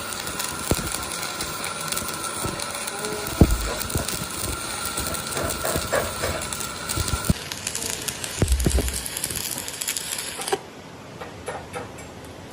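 Workshop metalwork on a truck axle: clanking and several sharp metal knocks over a steady background whine that stops suddenly about seven seconds in, with the background changing abruptly again near the end.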